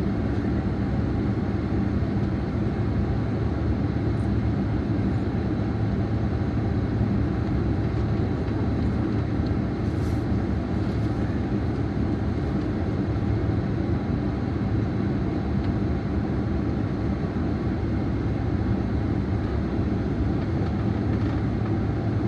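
Steady cabin noise of a jet airliner on the ground after landing: a constant low hum under an even rush of air.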